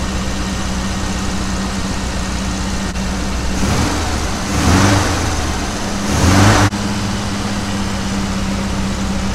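Classic Mini's four-cylinder A-series engine idling steadily, revved up twice around the middle and dropping back to idle each time.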